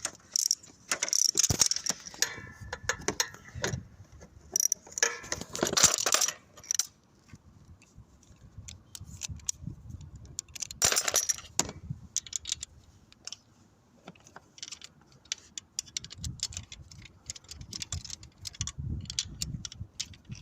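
Metal hand tools clinking, scraping and rattling while a 10mm bolt is undone on the Honda Vision 110 engine's cylinder head area, with a few louder bursts of clatter in the first half and runs of small quick clicks later on.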